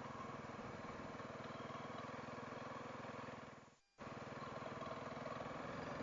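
Honda CRF300L's single-cylinder engine running steadily at low revs, heard faintly. A little before the four-second mark the sound fades out to near silence, then cuts straight back in.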